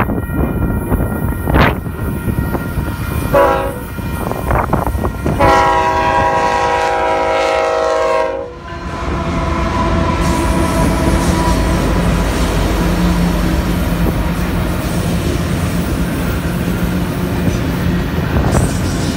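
A Union Pacific diesel freight locomotive's air horn sounds a short blast and then a long one of about three seconds, which cuts off as the lead locomotive reaches the crossing. The locomotives then pass close by with a low engine tone over the loud rolling noise of the train, followed by loaded autorack cars rolling past.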